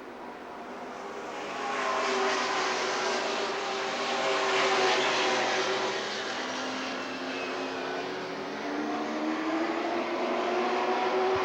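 A field of racing pickup trucks running at speed on a paved oval, several engine notes overlapping and sliding up and down in pitch. They grow louder about a second and a half in as the pack comes past.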